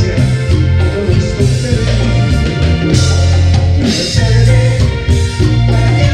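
Tropical band playing a romantic ballad, with bass, keyboards, guitar and drum kit.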